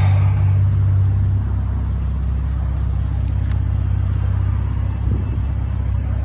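2018 Ford Raptor's twin-turbo 3.5 L EcoBoost V6 running steadily with a low hum, which eases slightly about a second and a half in.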